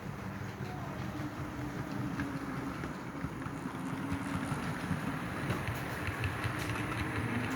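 HO-scale model train running on the layout: a steady motor hum and whine, with faint ticking from the wheels on the track from about halfway through.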